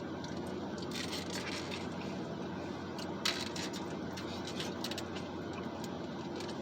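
A steady low mechanical hum, with a few faint short clicks.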